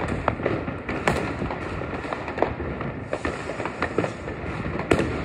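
Fireworks rockets and firecrackers going off all around, with many sharp bangs of varying loudness at irregular intervals over a continuous crackle. The loudest bangs come about a second in and near the end.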